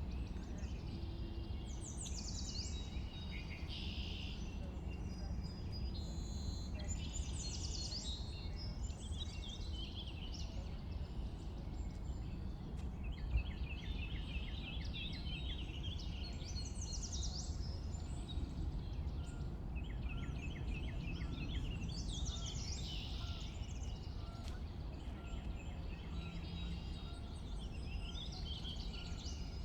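Songbirds singing in short, varied phrases, with a few runs of rapid repeated notes. A steady low rumble runs underneath.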